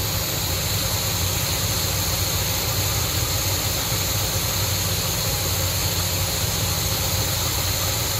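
Cadillac big-block V8 with a four-barrel carburettor idling steadily at about 800 rpm in park. Vacuum sits around 19 and occasionally surges to 20 then stumbles back, a slight uneven idle the owner calls a jiggle and thinks is still something going on in the motor.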